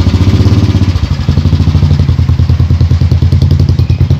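Royal Enfield Thunderbird 350's single-cylinder engine idling steadily, with an even pulsing beat.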